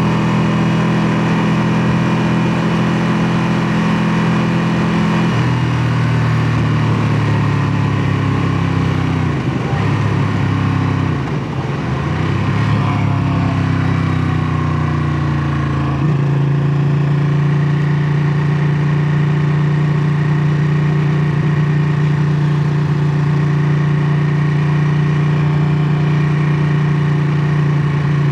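Ducati Panigale 959's 955 cc Superquadro V-twin engine running with a steady exhaust note. Its pitch drops about five seconds in, wavers and dips briefly in the middle, then holds steady again for the rest.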